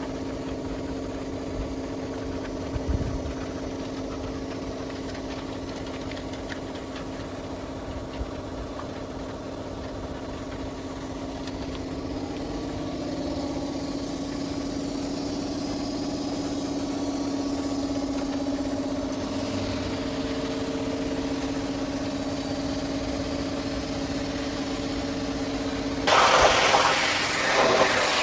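An engine running steadily at an even pitch. Near the end a loud hissing rush of pressure-washer spray starts abruptly over it.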